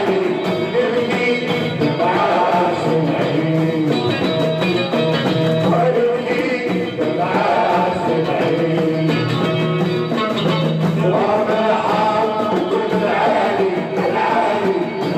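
Live music with singing: a melody carried over a steady low accompaniment, playing without a break.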